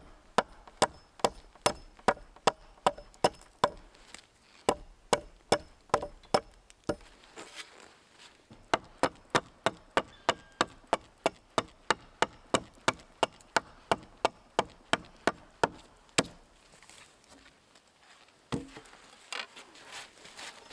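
Steady, rhythmic chopping strikes on wood, about two and a half a second, with a short break about seven seconds in. The chopping stops about sixteen seconds in, leaving quieter handling sounds and a single thump.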